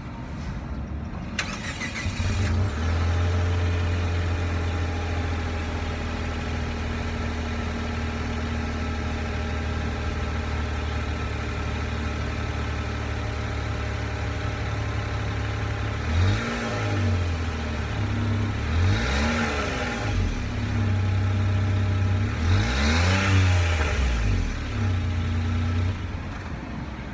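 Nissan Dayz kei car's 660 cc three-cylinder engine being started: a brief crank, catching about two seconds in, then idling steadily. Later it is revved three times, each rev rising and falling back to idle.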